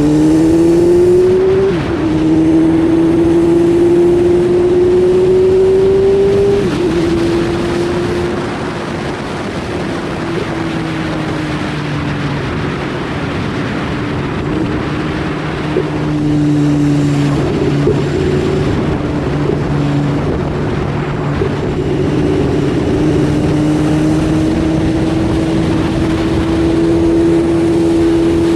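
BMW S1000RR's inline-four engine pulling hard through the gears, its note rising and then dropping at an upshift about two seconds in and again about seven seconds in. It then eases through the corners, the pitch sagging and climbing again near the end, with wind rushing over the helmet-cam microphone.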